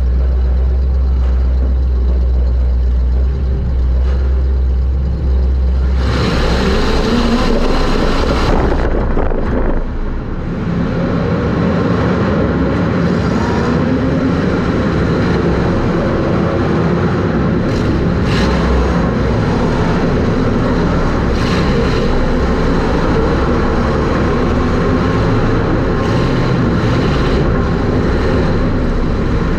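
Super Stock race car's engine heard from inside the car: a steady low drone for the first few seconds, then about six seconds in the engine comes on loud and runs hard, its pitch rising and falling through the rest.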